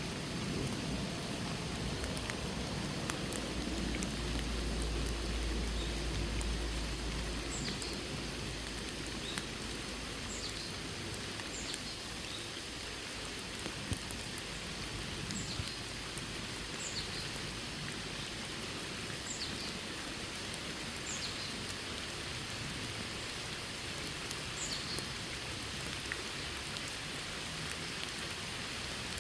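Steady rain falling, with a few sharp drip ticks. From about a quarter of the way in, short high chirps recur every second or two over the rain.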